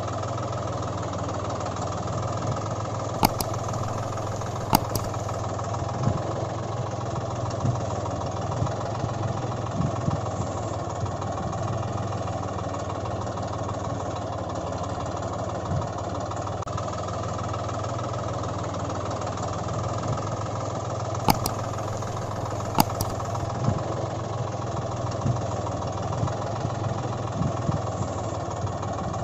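Tractor engine running steadily at idle, with sharp clicks in two pairs, one early and one past the middle.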